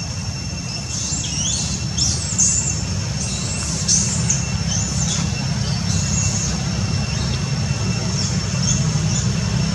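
Birds chirping in the trees, a string of short high calls through the middle of the stretch, over a steady low rumble and a thin, steady high tone.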